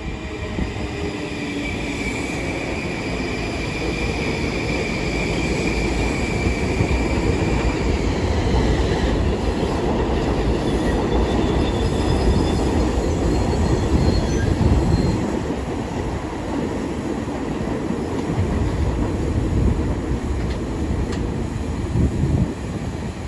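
Long Island Rail Road train running past on the rails with a continuous rumble of wheels. A high steady wheel squeal sounds over roughly the first eight seconds, and fainter, higher squeals come around the middle.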